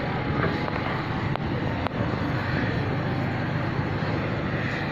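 Cessna R182's piston engine and propeller running steadily with a low drone, with two brief clicks about a second and a half and two seconds in.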